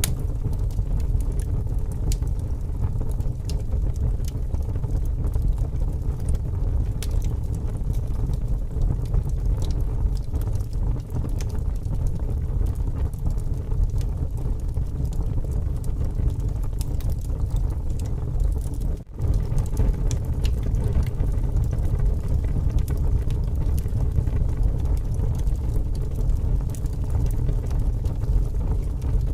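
Wood fire crackling with scattered sharp pops over a steady low rumble of strong wind. The sound drops out for a moment about two-thirds of the way through.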